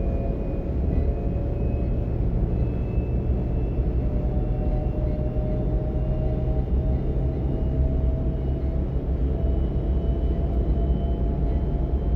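Class 425 electric multiple unit running, heard from on board: a steady low rumble of the running gear, with a traction-motor whine that climbs slowly in pitch as the train gathers speed.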